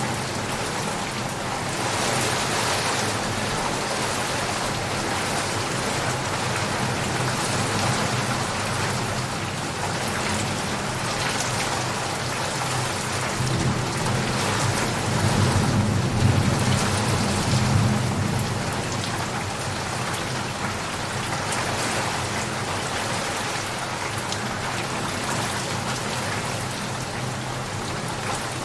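Steady rainfall, a constant hiss of drops. About halfway through, a low roll of thunder swells and fades over several seconds.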